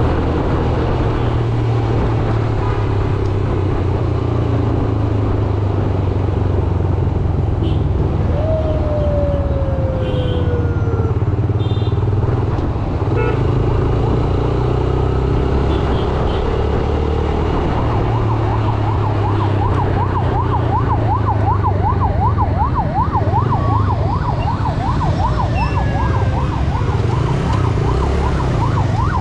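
Yamaha YBR 125G's single-cylinder four-stroke engine running as the bike rides through traffic, with road and wind noise. About two-thirds of the way through, an emergency-vehicle siren starts up close by, a fast up-and-down warble that keeps going.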